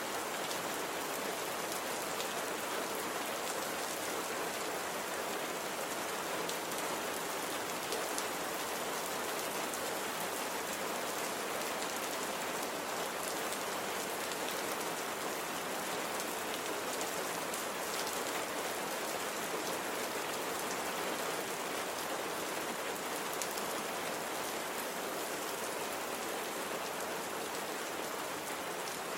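Steady rain falling on a surface, an even hiss dotted with the small ticks of individual drops.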